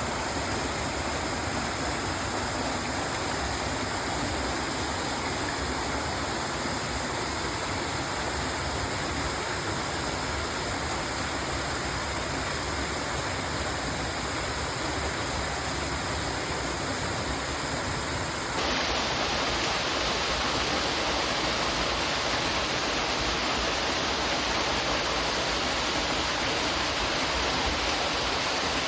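Waterfall rushing with a steady, even roar of falling water. About two-thirds of the way through the sound shifts abruptly to a slightly louder, duller rush.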